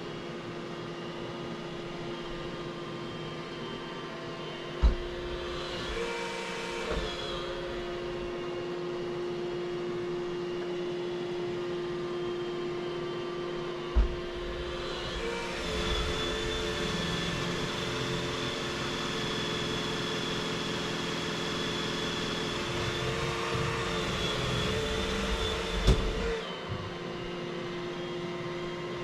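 Vacuum cleaner running with a steady hum. It grows louder, with an added higher whine, briefly about six seconds in and again for about ten seconds in the middle, and three sharp knocks stand out, about five, fourteen and twenty-six seconds in.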